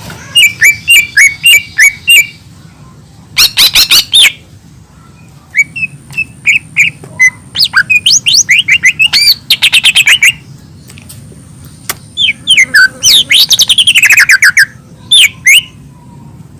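Lesser green leafbird (cucak ijo mini) singing: loud bouts of rapid, sweeping chirps and trills, broken by short pauses, with a long busy phrase in the middle and another near the end.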